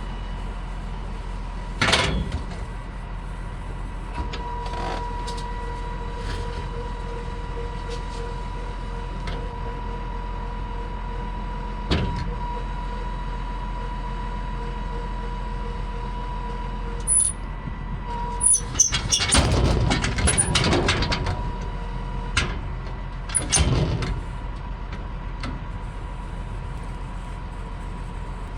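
A vehicle engine running steadily, with a faint steady whine for part of the time. Single knocks now and then and a short clatter of loud bangs about two-thirds of the way through.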